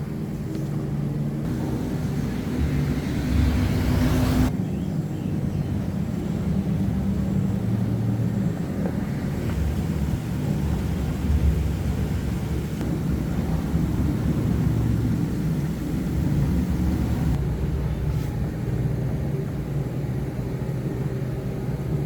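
A motor vehicle engine running steadily, with a rising rev for a couple of seconds near the start.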